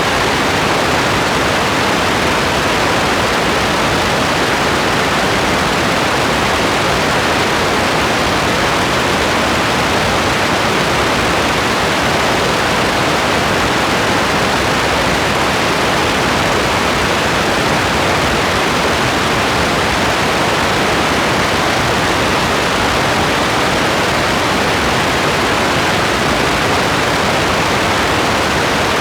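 Steady, even rain noise, a constant hiss with no single drops or thunder standing out.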